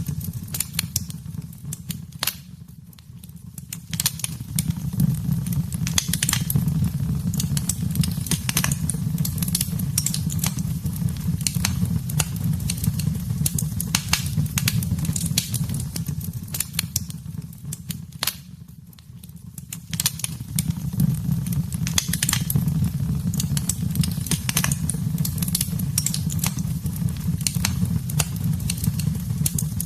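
Wood fire in a fireplace crackling, with frequent sharp pops and snaps over a steady low rumble of the flames. The sound fades down briefly twice, about three seconds in and again at about eighteen seconds, then comes back.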